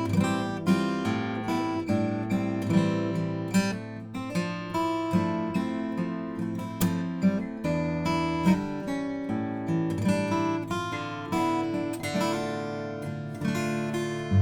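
Mentreel HB-8 DC BK 41-inch dreadnought cutaway acoustic guitar, with a spruce top and mahogany back and sides, played fingerstyle: picked notes over ringing chords, struck a few times a second.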